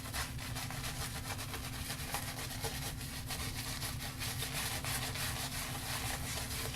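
Shaving brush working tallow shaving soap into a lather, with quick continuous bristle-rubbing strokes over a steady low hum.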